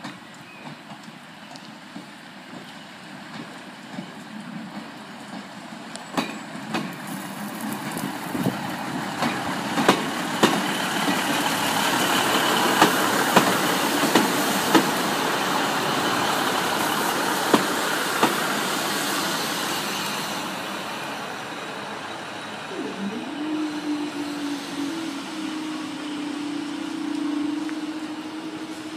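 Northern Class 150 Sprinter diesel multiple unit passing over a level crossing: its rumble builds to a peak and fades, with sharp clacks as the wheels cross rail joints. Near the end a steady engine tone rises in pitch and then holds.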